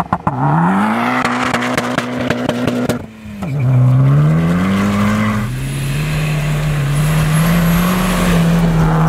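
Mitsubishi Lancer Evolution IX's turbocharged four-cylinder engine revving hard under acceleration on snow, its pitch climbing. About three seconds in it dips briefly in pitch and loudness, then climbs again and holds high, rising slowly.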